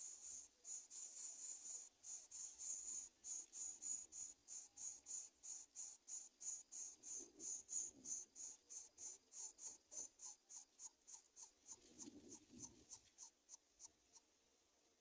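Greater coucal nestlings begging: a fast run of short, high, scratchy calls, about three to four a second, that gets quicker and fainter and stops near the end. Two brief low rustles in the nest come partway through.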